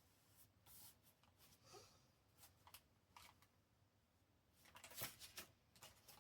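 Faint rustling and light taps of paper journal pages being handled, with a short cluster of louder clicks about five seconds in.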